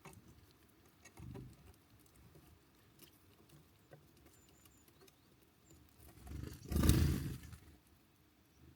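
Small birds at a feeder with faint scattered pecking and tapping and a brief high chirp. About six seconds in, a rumbling whoosh swells for a second and a half and dies away, the loudest sound here.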